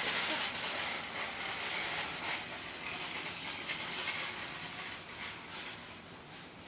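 Tape being peeled off a roll and wrapped around the end of a part, a steady hissing crackle that fades gradually.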